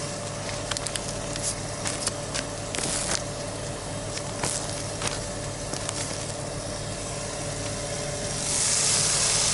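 Plastic crinkling and small clicks as raw turkey burger patties are handled in their bag, over a steady low hum. About eight and a half seconds in, a loud steady hiss starts as the patties begin sizzling in a hot pan on a portable butane burner.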